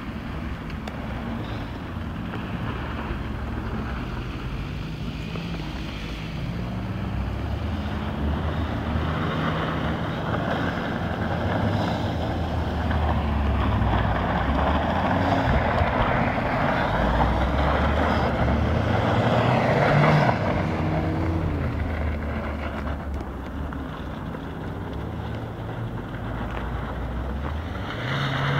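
Turbocharged Audi A3 quattro engine revving up and down as the car slides around on snow, its pitch rising and falling repeatedly. It grows louder as the car comes close through the middle and fades as it pulls away, over a steady hiss of tyres and wind.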